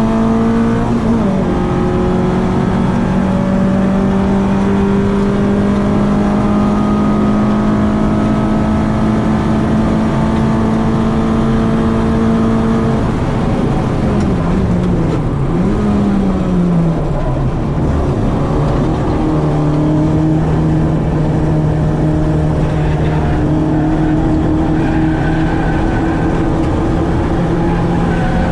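Citroen AX 8-valve four-cylinder engine on twin Weber 40 carburettors running hard at steady high revs, then revs dropping with a couple of quick blips about halfway through before it settles and holds at a lower, steady pitch.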